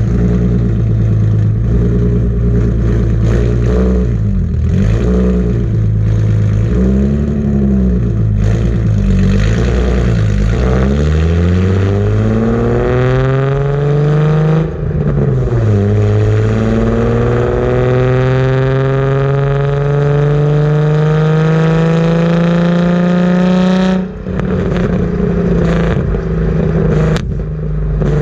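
Car engine through a Tomei cat-back exhaust, very loud: several short revs for the first ten seconds, then hard acceleration with the pitch climbing. There is a gear change about 15 seconds in, the pitch climbs again, drops sharply when the throttle closes near 24 seconds, and then settles to steady running.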